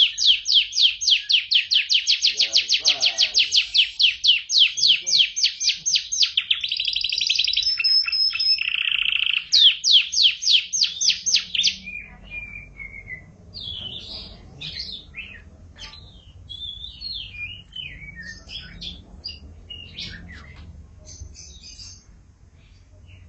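Domestic canary singing: loud fast trills of rapidly repeated high notes, about five a second, with a lower buzzing roll about nine seconds in. About twelve seconds in the song turns softer and breaks into scattered chirps and warbles.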